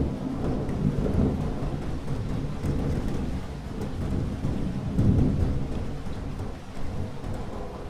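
Thunderstorm: low thunder rumbling over steady rainfall, the rumble swelling again about five seconds in, with rain drops ticking lightly throughout.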